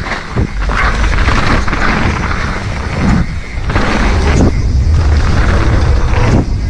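Wind buffeting an action camera's microphone with the rumble and rattle of a mountain bike riding down a dirt trail: a steady low roar broken by a few brief dips and jolts.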